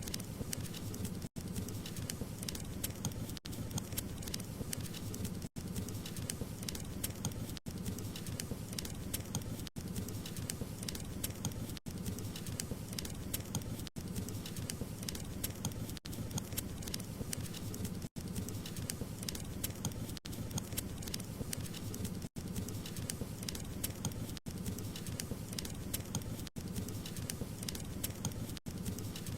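Wood fire crackling in a fireplace: a dense, steady run of small pops and crackles over the low rush of the flames, with a very brief drop in sound about every two seconds.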